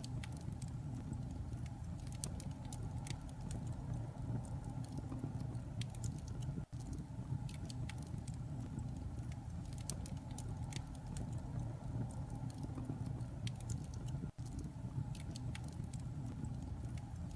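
A white-noise track: a steady low rumbling hiss with scattered light crackling ticks over it. It cuts out for an instant about seven seconds in and again near fourteen seconds, as a repeating loop.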